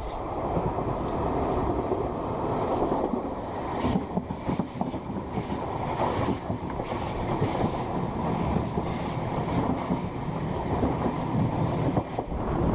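High-speed train running along the track: a dense rushing rumble with irregular knocks and clatter from the wheels.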